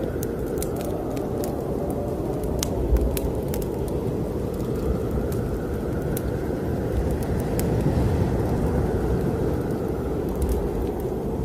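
Snowstorm wind blowing over a deep rumble, rising and falling in slow gusts, with a wood fire in a fireplace crackling in scattered sharp pops, more of them in the first few seconds.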